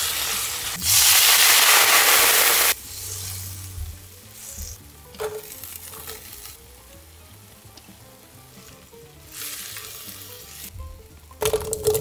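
Shrimp and lobster sizzling in a hot wok as they are stirred with tongs, with a loud stretch of sizzling from about a second in to nearly three seconds. Quieter sizzling follows as garlic and shallots go into the oil, with a few sharp clicks near the end.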